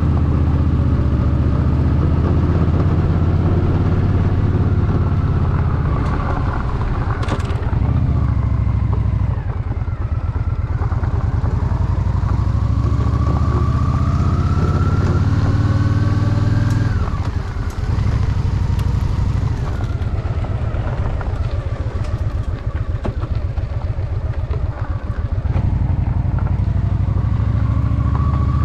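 Honda Shadow VT750's V-twin engine running while the motorcycle is ridden, heard from the rider's seat. The revs rise steadily for several seconds through the middle, then fall back to a slower, lumpy putter before picking up again near the end.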